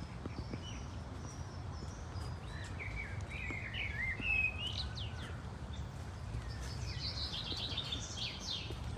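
Several birds chirping and singing over a steady low rumble. The calls pick up about three seconds in, with a quick run of chirps near the end.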